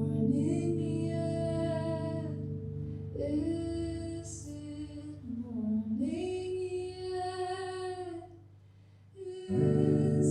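Live song: a voice holding long sung notes that slide between pitches over a sustained guitar drone run through echo and chorus effects. The accompaniment nearly drops out about nine seconds in, then comes back in loud.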